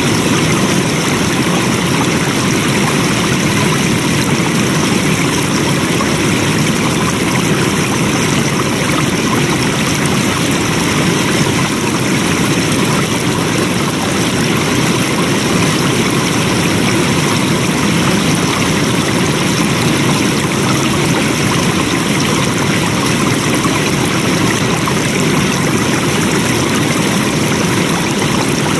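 Flowing water: a steady, loud rushing stream with no breaks or changes.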